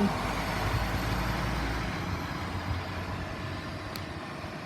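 Scania N230UD double-decker bus's diesel engine running as the bus moves off. Its low engine note drops away after about two seconds and the sound keeps fading.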